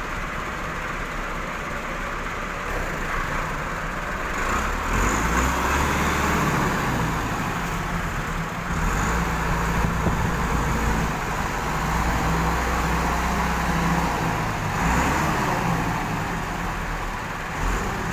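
Steady loud noise of farm machinery running, with a low engine-like hum that swells and eases every few seconds.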